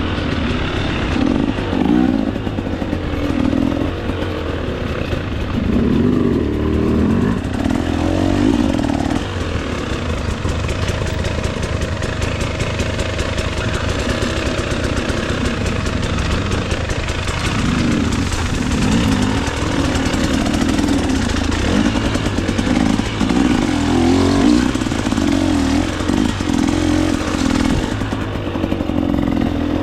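2024 KTM 300 XC-W single-cylinder two-stroke dirt bike engine, revving up and falling back again and again as the throttle is worked along a trail.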